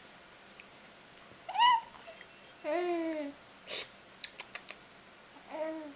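A baby babbling in short separate vocal sounds, starting with a high rising squeal about a second and a half in, then lower drawn-out coos, with a few small clicks near the middle.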